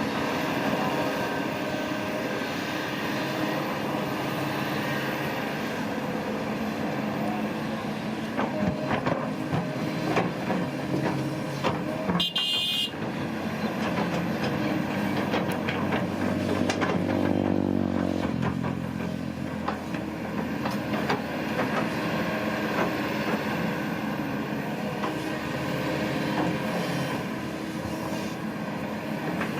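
Diesel engine of heavy earthmoving equipment running steadily, with scattered metal clanks and knocks. There is a brief high squeal partway through, and the engine pitch shifts soon after.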